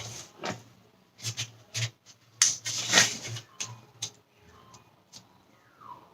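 A square of origami paper rustling and crackling in short, irregular bursts as it is handled and folded.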